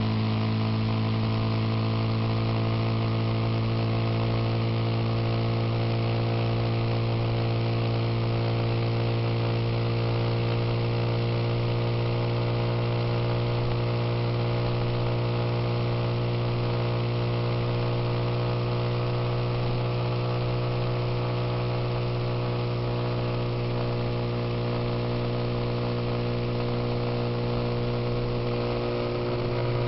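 Suzuki Intruder motorcycle engine running at a steady cruising speed, its pitch holding even, with a constant rush of wind and road noise over it.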